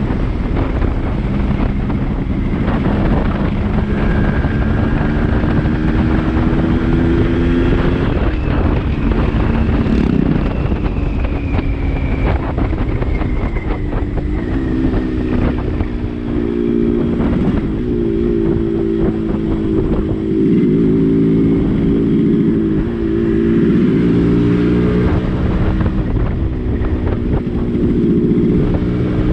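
Yamaha RX-135 two-stroke single-cylinder engine pulling under way, its pitch climbing and dropping back again and again as it is shifted through the gears, most often in the second half. Wind buffets the microphone throughout.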